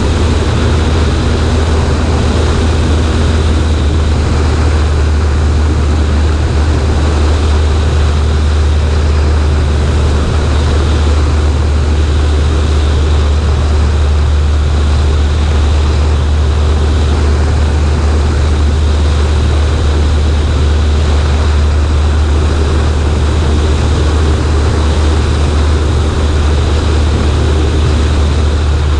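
Cessna 140A's four-cylinder engine and propeller running at a steady drone in flight, heard from the wing with a rush of air over the microphone.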